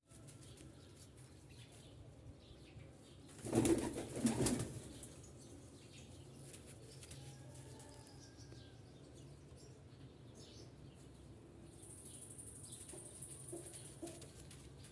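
Domestic pigeons: a loud flurry of wing flapping in two quick bursts about three and a half seconds in, with soft cooing later.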